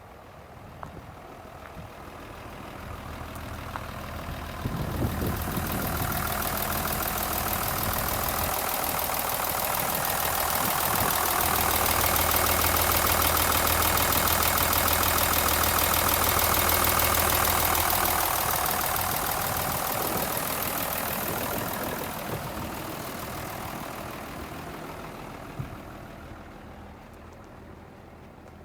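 Mitsubishi Aero Midi bus's 6D16 turbo inline-six diesel engine running. It grows louder over several seconds, holds steady at its loudest for several seconds, then fades away.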